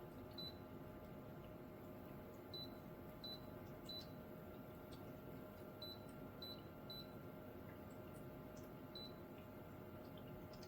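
About eight short, high electronic beeps at irregular intervals over a faint steady hum.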